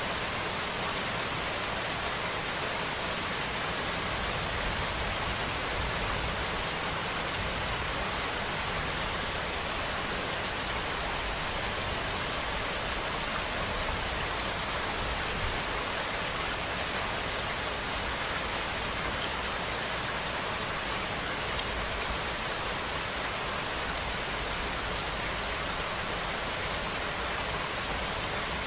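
Steady rainfall: an even, unbroken hiss of rain on surfaces with no thunder.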